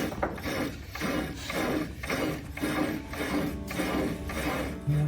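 Ratchet wrench clicking in repeated strokes, about two a second, as a nut on the motorcycle's clutch is tightened toward a torque of about 40 pounds.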